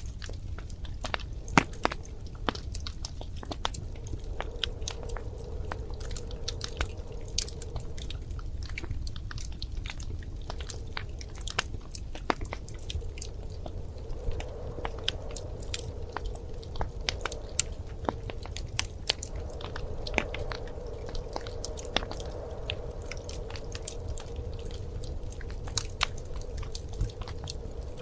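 Wood fire crackling in a fireplace: irregular sharp pops and snaps over a low steady rumble of the flames, with a faint hum that comes and goes.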